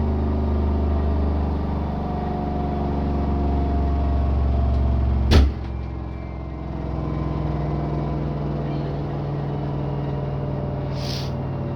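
LG F6WV710P2S front-loading washing machine running in its spin cycle, a steady mechanical hum with several low tones. About halfway there is one sharp, loud click or knock, after which the hum carries on at a slightly different pitch, and a brief hiss sounds near the end.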